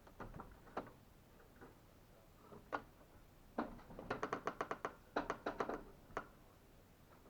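Handling noise: a few single light taps, then two quick runs of rapid clicks about four and five seconds in, as of small objects being handled.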